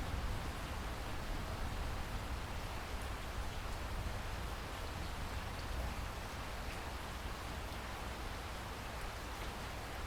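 Steady rainfall: an even hiss of rain with a low rumble underneath and faint scattered drop ticks.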